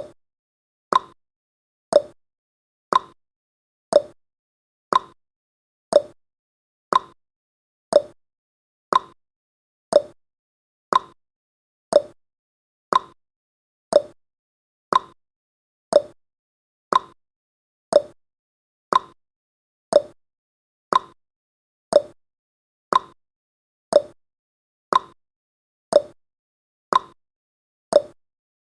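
Clock tick-tock sound effect of a countdown timer: short ticks at about one a second, alternating between a higher and a lower pitch.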